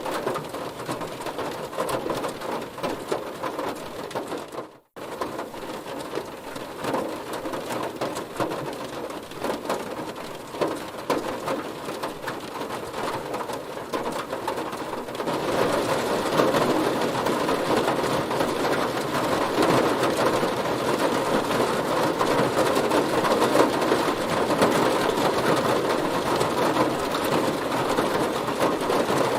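Heavy rain pattering on a car's body, a dense mass of individual drop hits. The sound cuts out completely for a moment about five seconds in, and from about halfway through the rain is louder and denser.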